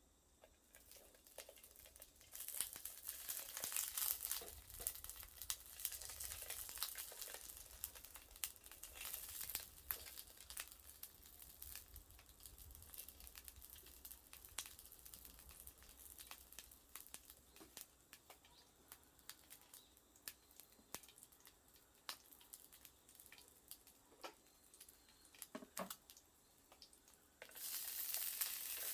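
Faint crackling and sizzling from a small wood fire in a wood stove with sausages grilling over it: a dense patter of small pops over a soft hiss, building about two seconds in and swelling again near the end.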